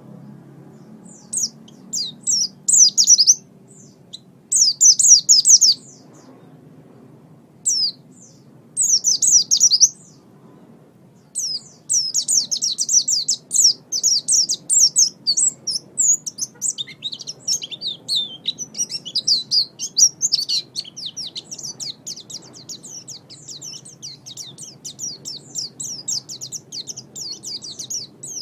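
Pleci (white-eye) singing: rapid, high-pitched chattering warbles, in short phrases with pauses at first and then in a near-continuous run of song for the rest of the time.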